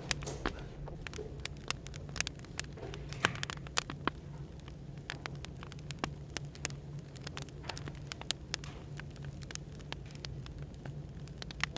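Wood fire crackling, with frequent irregular sharp pops, over a steady low hum of café background noise.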